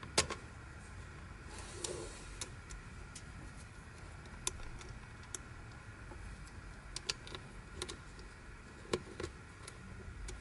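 Plastic pieces of a Yileng Fisher Wheel of Time twisty puzzle clicking and tapping together as it is handled during disassembly and assembly: scattered sharp clicks at an uneven pace, the loudest just at the start, over a low steady hum.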